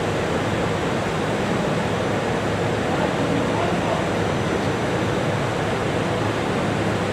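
Electric commuter train rolling past at close range: a steady rushing rumble of wheels on rail, even in level throughout.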